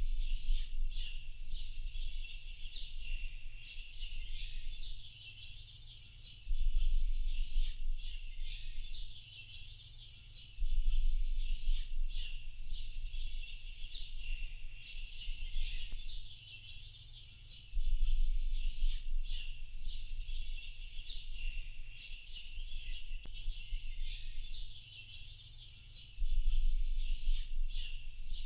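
Dense chorus of small birds chirping and calling, many short high calls overlapping without pause. Beneath it a deep low rumble swells in for a second or two at a time, five times, louder than the birds when it comes.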